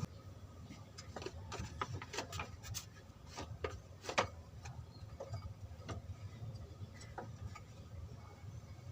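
Faint, irregular light clicks and taps, about a dozen, over a low steady hum.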